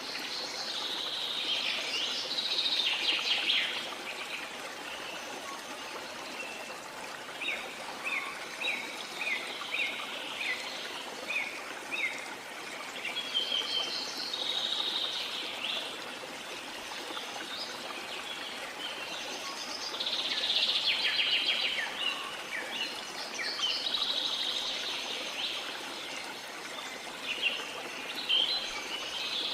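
A steady rush of water with small songbirds singing over it. The birds sing in several bursts, one of them a run of short, quick, falling chirps about a third of the way in.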